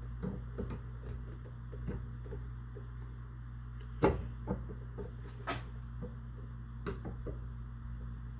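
Small metallic clicks and taps of lineman's pliers on shotgun parts as a spring-loaded part is squeezed into its slot, with a few sharper clicks about four, five and a half and seven seconds in, over a steady low hum.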